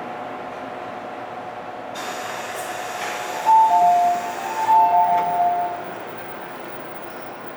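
Two-note electronic chime on an MTR M-Train, a high note then a lower one, sounding twice in a row over a rush of hiss that starts about two seconds in, typical of the train's door chime at a station stop.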